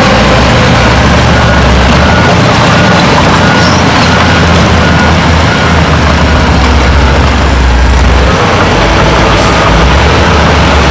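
Heavy diesel earthmoving machinery, bulldozer and dump truck engines, running loud with a load that rises and falls. A reversing alarm beeps faintly about once a second behind it.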